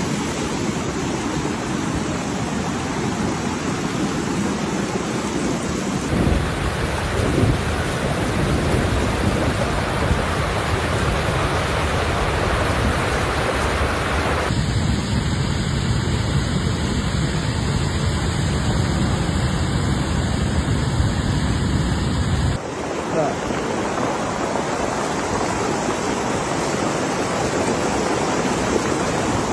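Steady rushing of fast-moving floodwater, a dense even noise that changes abruptly in character three times, about 6, 14 and 22 seconds in.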